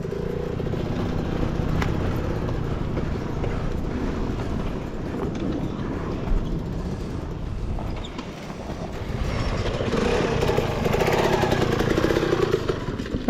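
Enduro dirt bike engine running at low throttle on rough ground, with a dip around eight seconds in and then a rise in engine sound.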